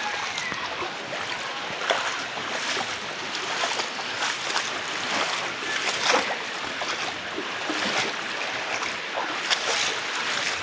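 Floodwater rushing and sloshing in a steady hiss, with short splashes every few seconds.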